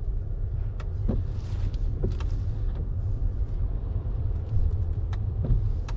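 Car engine idling, a steady low rumble, with a few light clicks.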